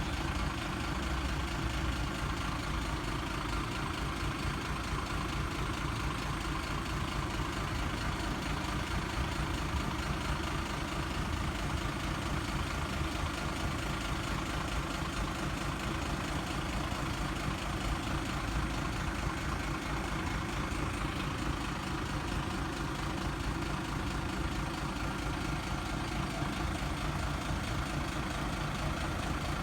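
Steady engine rumble, like a vehicle idling, with no change in level throughout.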